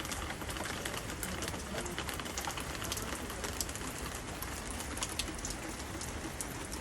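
Steady rain falling, with many sharp individual drips and drops hitting surfaces.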